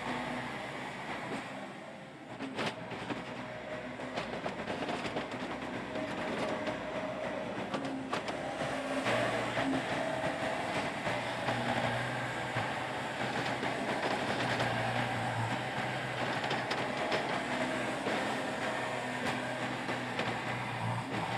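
Yanmar YB451 mini excavator's diesel engine running and working, with a steady hum and rattling clatter and a few sharp knocks. It dips briefly about two seconds in, then grows louder from about nine seconds in as the machine works harder.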